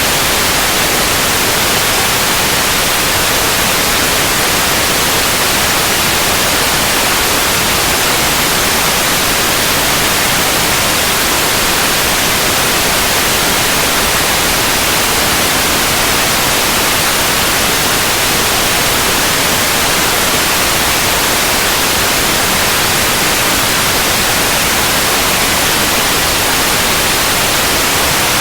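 Steady synthetic white noise: an even, unchanging hiss across the whole range, brightest in the highs.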